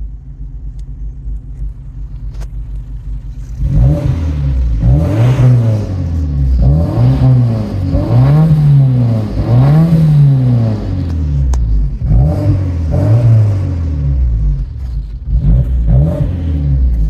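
1987 Alfa Romeo Spider's 2.0-litre twin-cam four-cylinder, its rear muffler replaced by a straight pipe, heard from inside the cabin. It runs low and steady for a few seconds, then is revved repeatedly and loud, its pitch rising and falling about every one and a half seconds.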